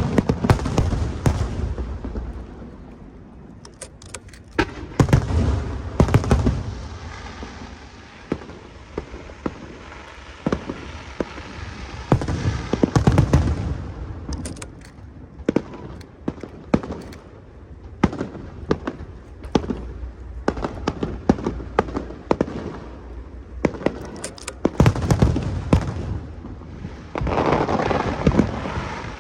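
Aerial fireworks going off: deep booms of shells bursting, mixed with many sharp cracks and crackling reports, in several heavy volleys.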